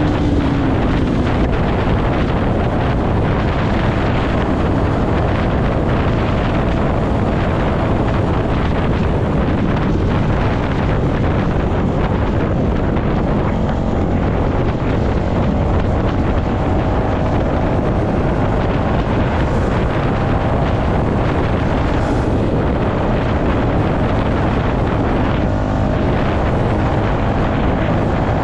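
Yamaha MT-125 motorcycle under way at a steady speed, its single-cylinder engine running beneath heavy wind noise on the microphone.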